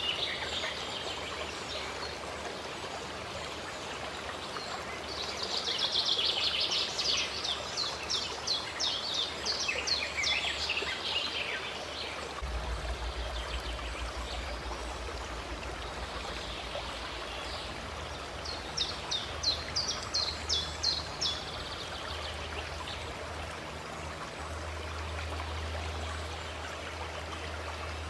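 Water running and splashing steadily, with a songbird singing two spells of quick repeated high notes, one about five seconds in and a shorter one later.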